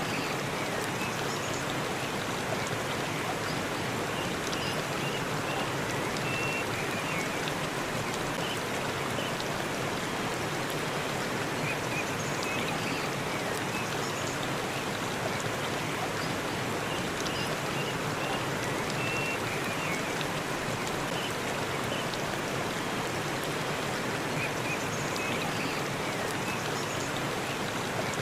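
Waterfall in a forest: a steady rush of falling water, with faint short high chirps now and then.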